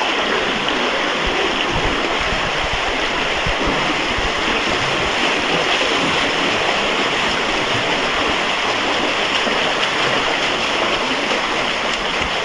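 Steady rush of flowing water, like a stream, with a few faint low thumps underneath.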